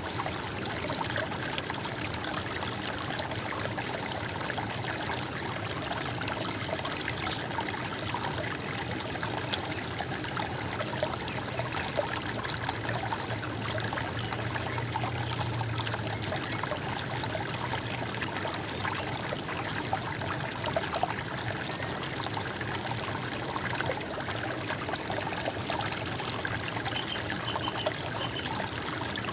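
Water running and trickling steadily, like a small stream flowing over stones.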